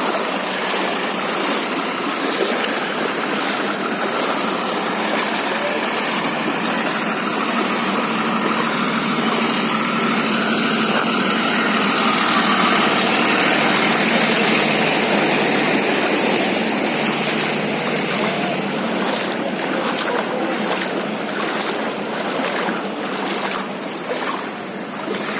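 Steady rushing and splashing of knee-deep floodwater, with faint regular knocks early on and again near the end.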